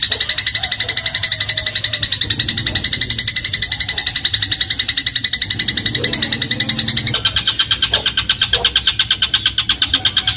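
Eurasian tree sparrow (burung gereja) giving a fast, unbroken chattering trill of high repeated chips. The pitch drops slightly about seven seconds in.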